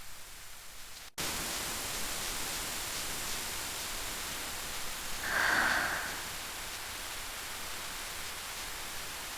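Steady rain hiss that starts abruptly about a second in, with a brief swell of sound near the middle.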